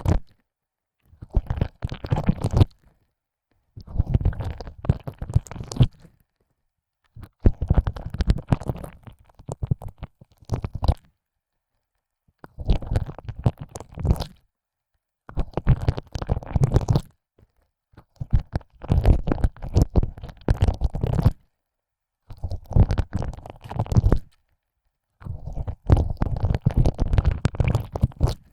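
Wet, close-up ear licking: a tongue pushed in and out of an ear hole, crackling and squelching in about eight bursts of one to four seconds, with a second or so of silence between them.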